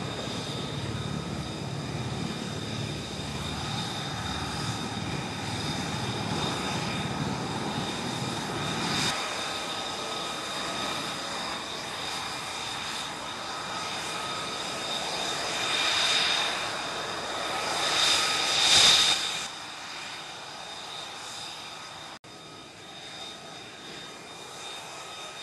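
F-35B jet engine running with a steady high whine over a rumble. The low rumble drops off abruptly about nine seconds in, and the whine swells loudest twice later before the sound falls away.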